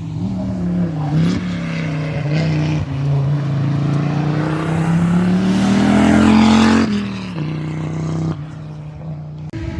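A rally car's engine accelerating hard past on a stage, its pitch climbing to a loud peak about six and a half seconds in, then dropping suddenly, as at a lift or gear change, before running on at a steadier, lower note.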